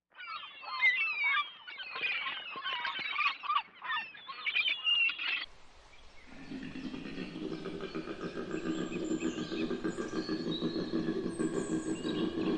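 Small birds chirping and twittering busily for about five seconds. After a sudden cut, a steady droning buzz of several pitches with a fast pulse takes over.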